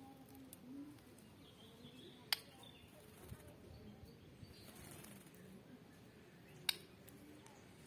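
Faint bird chirps, with two sharp clicks about four seconds apart that stand out as the loudest sounds.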